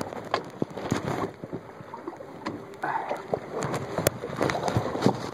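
A person climbing into and settling in a kayak: scattered knocks and scrapes against the hull.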